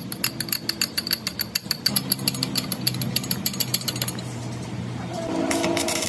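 Rapid, regular tapping or hammering, about eight strikes a second, which stops about four seconds in. A steady machine hum starts near the end.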